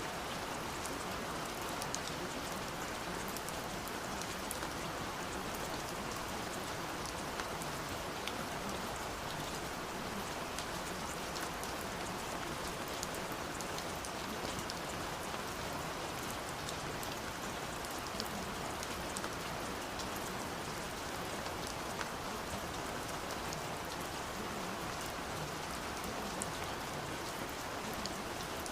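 Steady rainfall, with many fine drops pattering on a surface and no let-up.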